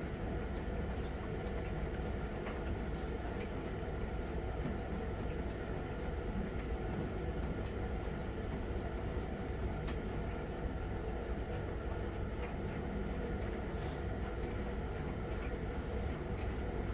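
Miele Novotronic W921 front-loading washing machine running a wash cycle: a steady motor and drum rumble with brief swishes every so often.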